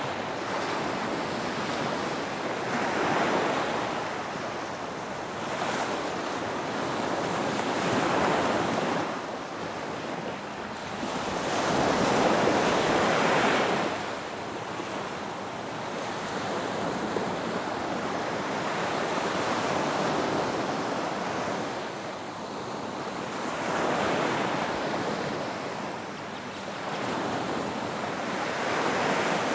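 Ocean waves breaking on a beach and washing back, the surf swelling and easing every few seconds in a steady rhythm.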